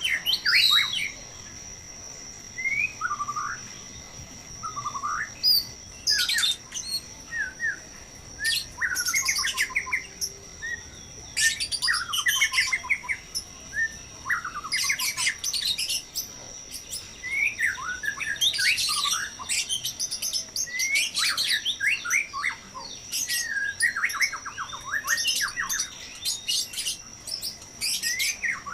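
White-rumped shamas chirping and calling noisily, in repeated bursts of rapid chirps and sweeping notes, over a thin steady high tone.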